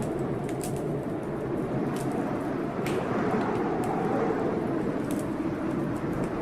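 Steady rush of heavy blizzard wind, swelling and easing a little, with a few sharp, scattered crackles and pops from a wood fire in a fireplace.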